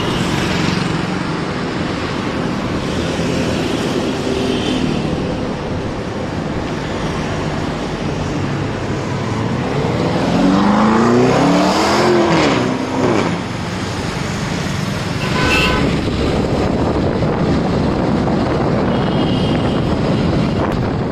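Lamborghini Urus twin-turbo V8 revving hard in city traffic about halfway through, its pitch climbing for about two seconds and then dropping away, over steady road traffic noise.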